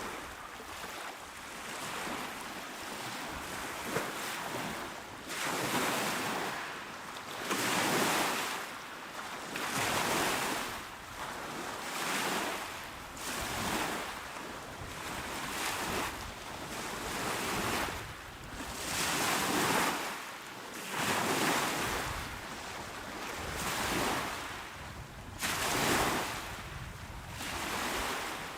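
Small, calm waves breaking and washing onto a shore, one after another about every two seconds, each swell of hiss rising and falling away.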